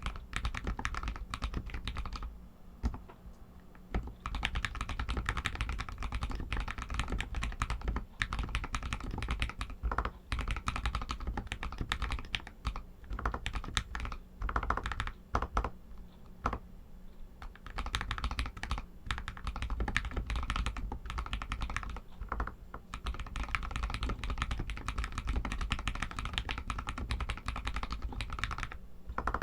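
Continuous typing on an RK61 60% mechanical keyboard with Outemu Red linear switches: fast, uneven streams of key clacks, broken by a couple of short pauses.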